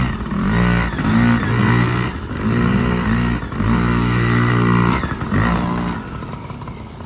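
Small two-stroke Yamaha PW50 minibike engine revving up and down in short bursts of throttle, fading somewhat near the end.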